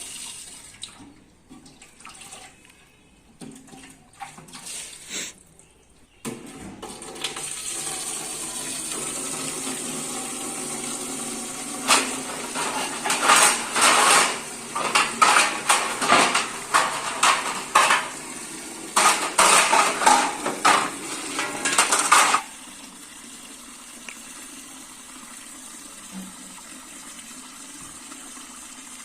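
Dishes being washed at a sink: a few light clinks, then a tap runs from about six seconds in while containers and dishes clatter under the water, and the water stops suddenly about twenty-two seconds in.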